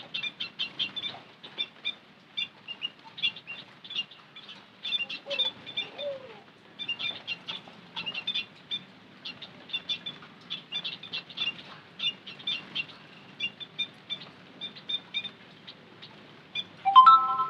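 White-headed munias calling: a dense, continuous run of short, high chirps and twitters.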